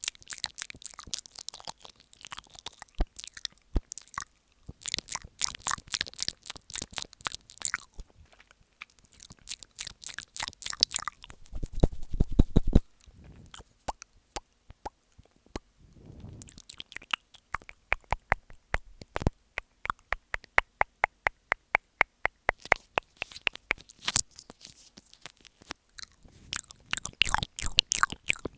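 ASMR mouth sounds made with the lips pressed to an earphone microphone ('mic eating'): rapid wet clicks, smacks and kissing sounds in dense trains, with a louder, deeper bout about twelve seconds in and a run of evenly paced clicks past the middle.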